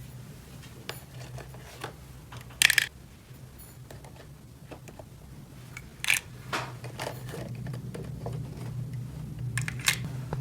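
Small plastic toy pieces being handled: scattered light clicks and taps, the sharpest about two and a half, six and ten seconds in, over a steady low hum.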